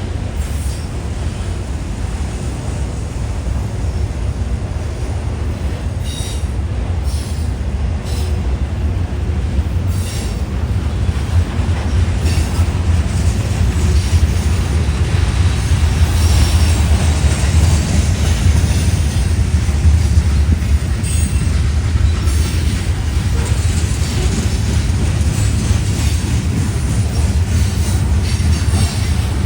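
CSX freight train rolling past: a steady low rumble with wheel clatter, swelling gently toward the middle, and a few brief high wheel squeals.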